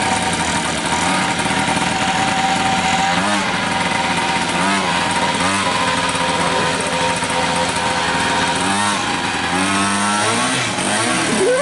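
50cc mini moto engine running, its note rising and falling briefly about five times as the throttle is blipped, with a longer rev near the end.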